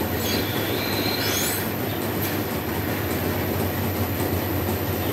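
Dairy milking plant machinery running steadily with a constant low hum. A brief high squeal comes in about half a second in and fades by about two seconds.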